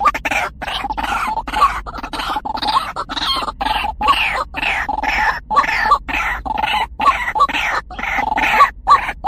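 White-breasted waterhen calling: a fast, unbroken series of harsh repeated notes, about two to three a second, each with a short falling sweep.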